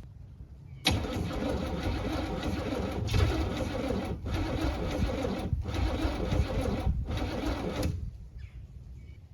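1978 Camaro's engine cranking over on its starter in a cold start without a choke, for about seven seconds with a few brief dips, and not catching.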